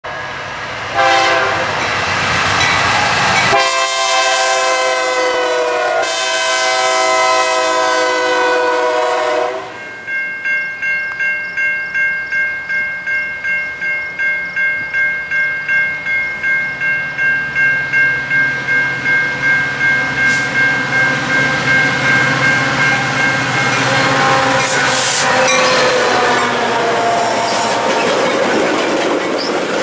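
Diesel freight locomotive blowing its multi-chime air horn in long blasts, broken by two cuts. Then a grade-crossing bell rings steadily, about twice a second, until a Metra commuter train sounds its horn and passes close by, its wheels running loudly over the rails.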